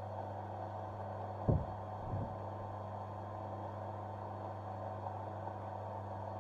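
Mini bench lathe running with a steady electric motor hum, and two short low knocks about a second and a half and two seconds in.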